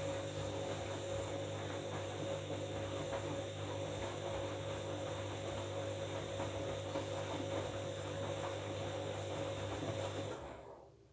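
Washing machine running with a steady electrical hum over a rushing, churning noise, winding down and stopping about ten seconds in.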